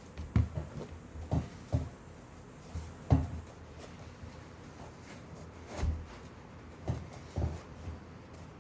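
A pair of ASICS Gel-Excite 8 running shoes being handled and pulled on: soft low thuds and knocks at irregular intervals, about seven in all, the loudest about three seconds in.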